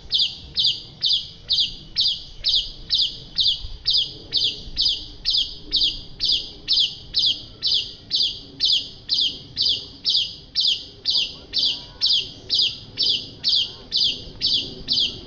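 Asian pied starling (jalak suren) calling: one short, high, sharp note repeated in a perfectly even rhythm about two and a half times a second, with no pause. It is a masteran track, a call played over and over for caged songbirds such as the white-rumped shama to learn.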